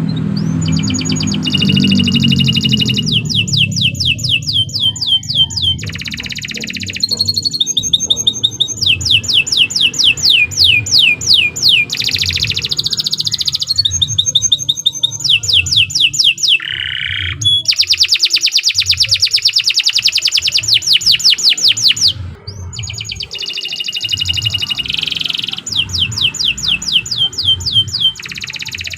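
Domestic canary singing a long, unbroken song of rapid trills. It delivers fast runs of repeated notes, each run held for a second or two before switching to a different trill, with only brief breaks between them.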